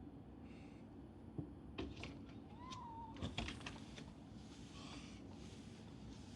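A cat gives one short meow about two and a half seconds in, among a few light clicks and knocks.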